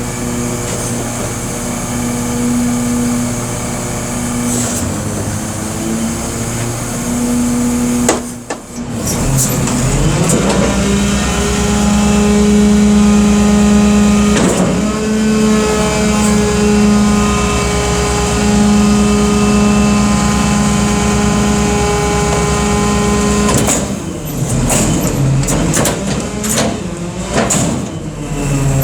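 Diesel engine of a 2005 Freightliner M2 106 garbage truck running steadily, then revving up about a third of the way in and holding at a higher speed before dropping back, with a few clicks, and rising again at the very end.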